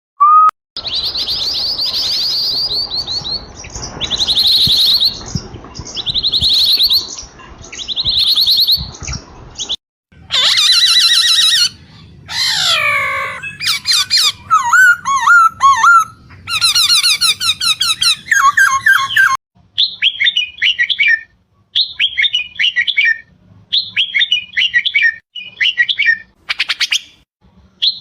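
Songbirds singing: first a rapid high trill repeated about every second and a half over a steady hiss, then a run of varied whistles and fast trills, then short chirpy phrases repeated in quick succession.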